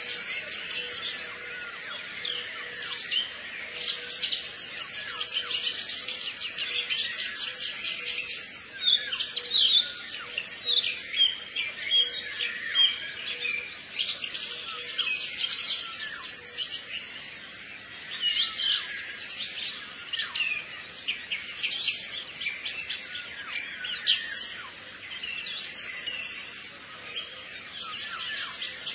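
Small birds chirping and trilling continuously, with fast runs of repeated notes and some louder single chirps in the middle.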